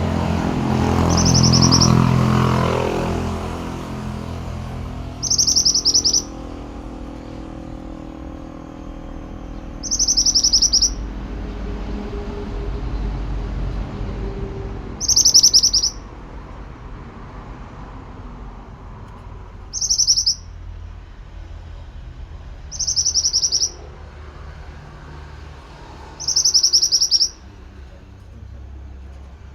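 Pied bushchat (mantenan) singing: seven short, high phrases of rapid notes, a few seconds apart. A low rumble passes in the first few seconds.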